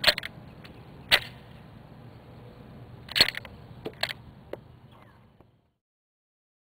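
Sharp clicks of a Glock 22 pistol's mechanism being worked by hand, a handful of them spread over about four and a half seconds, the loudest at the start, about a second in and about three seconds in.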